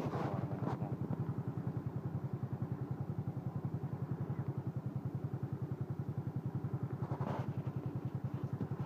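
Motorcycle engine running steadily with an even, rapid pulse and no revving.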